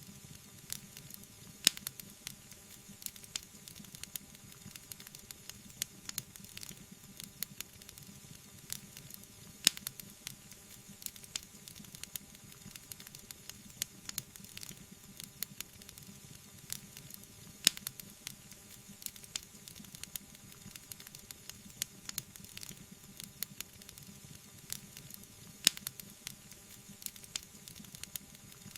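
Wood fire crackling: frequent sharp pops and snaps over a steady soft hiss, with a few louder pops standing out.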